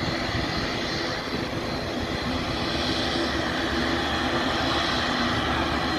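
Jet airliner engines running with a steady, even noise that does not rise or fall.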